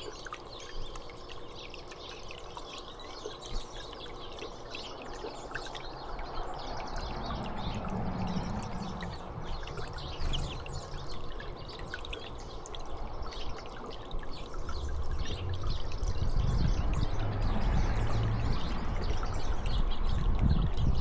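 Running water trickling and pouring steadily, with scattered small bird chirps over it. A low rumble builds up in the last several seconds.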